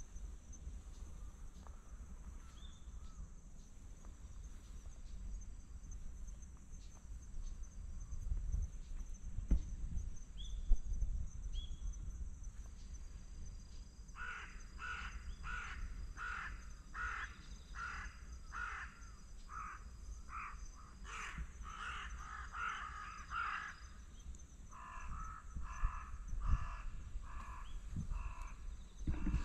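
A bird calling over and over in two runs of short, harsh calls, about two a second, starting about halfway through. Under it is a steady high insect drone, and two dull bumps come a third of the way in.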